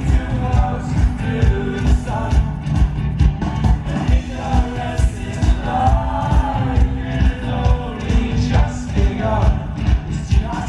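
Live band music played loud through a festival sound system, with a steady drum beat of about two hits a second and a sung melody.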